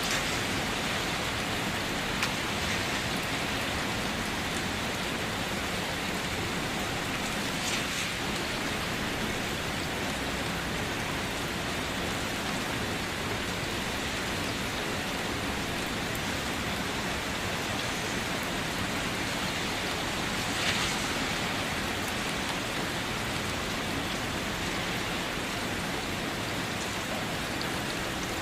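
Steady rain falling, an even hiss with a few sharper drop hits standing out, the clearest about 21 seconds in.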